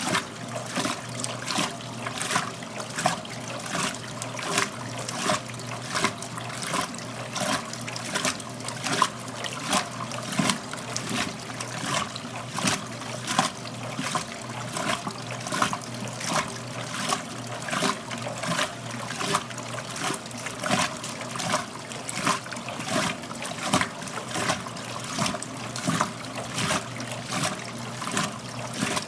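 1969 Westinghouse front-loading washer tumbling clothes in water: a regular rhythm of splashes and sloshing over a steady motor hum. The sound drops away suddenly at the very end.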